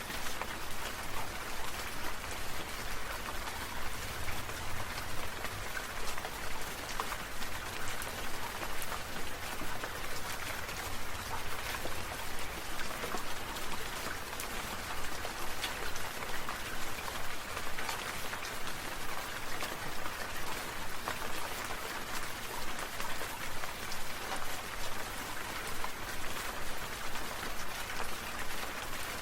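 Steady rain, with many separate drops pattering and ticking on a hard surface.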